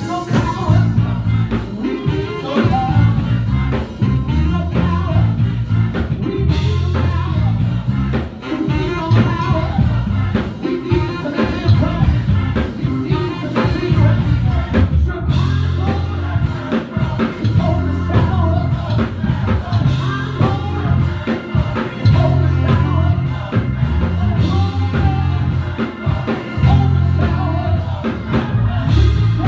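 Church worship music: a band with drums and a steady bass line under singing.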